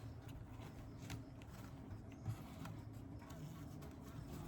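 Faint, steady low hum of honeybees around an open hive, with a few light ticks from the wooden frame being handled.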